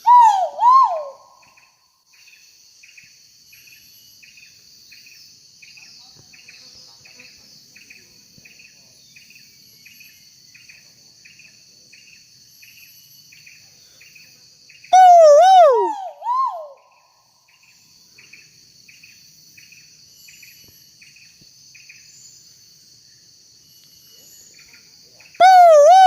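Great argus pheasant calling: three loud, wavering two-note calls about ten seconds apart. Under them, a steady high drone of insects and a regular chirping.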